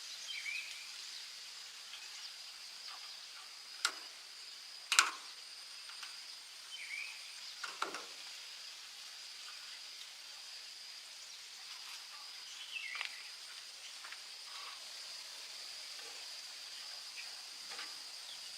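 Quiet background with a steady high-pitched whine, a few short chirps, and two sharp clicks or taps, about four and five seconds in, the second louder.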